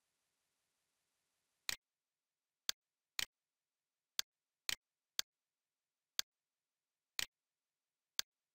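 Computer mouse button clicking: nine sharp clicks spaced about half a second to a second apart, four of them quick doubles.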